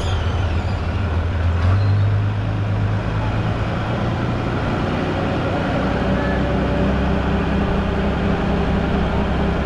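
Heavy engine running steadily at low revs, its note shifting about two seconds in and again around six seconds.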